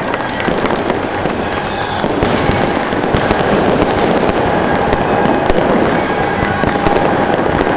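Strings of firecrackers going off in a dense, continuous crackle of rapid small bangs, without a break and a little louder after about two seconds.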